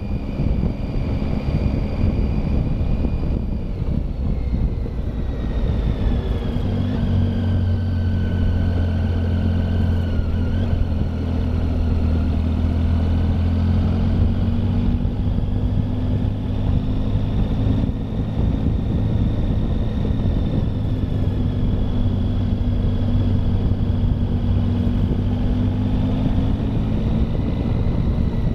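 Triumph Tiger motorcycle engine running steadily while riding, its low engine note strong and even. A fainter high whine drops in pitch a few seconds in and later rises again.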